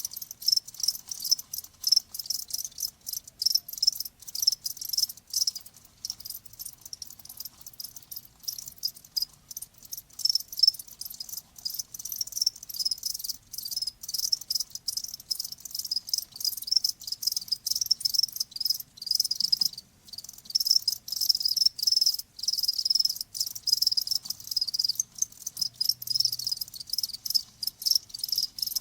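Crickets chirping, a dense chorus of rapid high-pitched pulses that runs on without a break.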